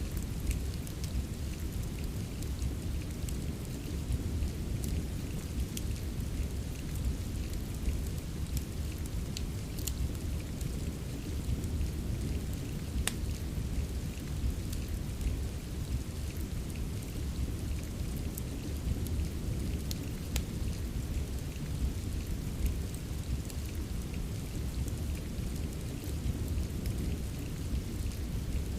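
Steady rain ambience mixed with a fireplace: a continuous deep low rumble under an even hiss of rain, with scattered sharp crackles.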